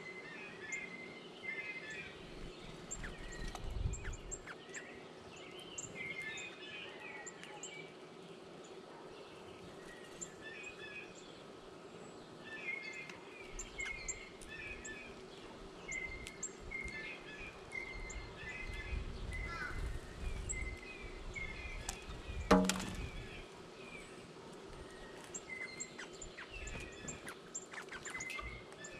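Several wild birds chirping and calling in short repeated notes at a ground feeder. A single sharp knock about three-quarters of the way through is the loudest sound.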